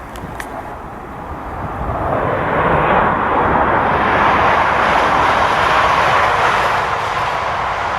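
A train passing at speed: a rushing rail noise that builds about two seconds in, stays loud for several seconds, then eases a little near the end.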